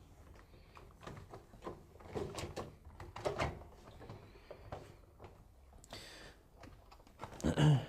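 Rubber door seal of a Hotpoint washing machine being handled and pushed through the machine's front opening: scattered knocks and rubbing against the cabinet, with a louder knock near the end.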